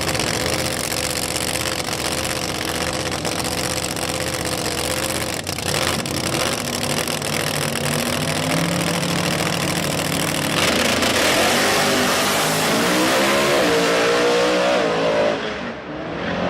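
Drag car engine running steadily, then revving up with rising pitch from about eight seconds in, louder from about ten seconds, before falling away near the end.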